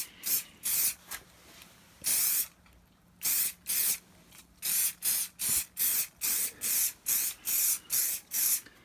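Spray can of Muc-Off Fabric Protect hissing in short bursts onto a fabric jacket, about two bursts a second for most of the time, with a brief pause about three seconds in.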